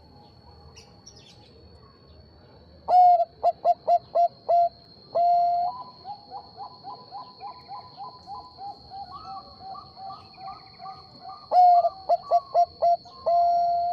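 Zebra dove (Bangkok perkutut) cooing. Two loud phrases of short, clipped coos, each ending in a long drawn-out coo, with a softer, quicker run of coos in between.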